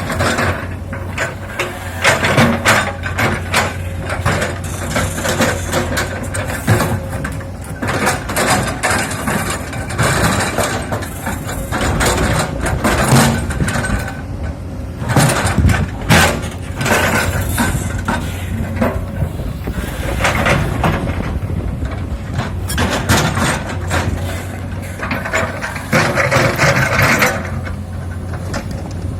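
Komatsu PC200 hydraulic excavator running steadily under load, its diesel engine holding a constant hum while stone boulders and the steel bucket clank and knock irregularly.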